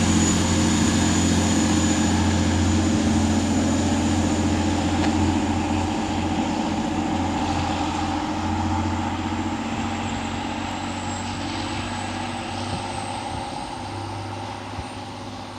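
A Class 185 diesel multiple unit pulling away, its diesel engines running steadily under power and fading as it draws off, with a faint high whine rising slowly in pitch.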